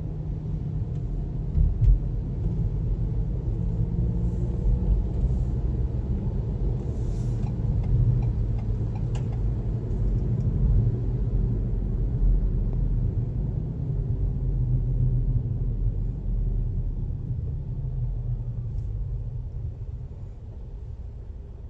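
Steady low road rumble of a moving car, with a couple of short thumps about two seconds in, fading over the last few seconds.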